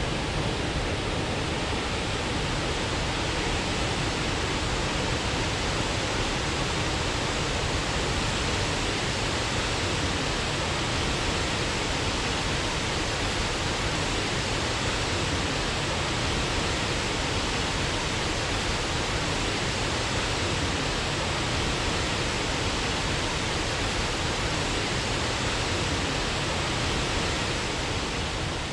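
Waterfall: water falling steadily in an even, unbroken rush.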